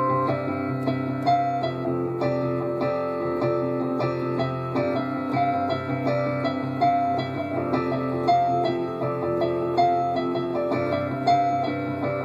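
Improvised keyboard music in a piano tone: melodic notes over a held low bass, with a short bright figure coming back about every second and a half.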